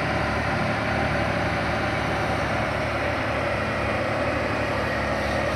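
Heavy vehicle engine running steadily at a constant idle-like pace.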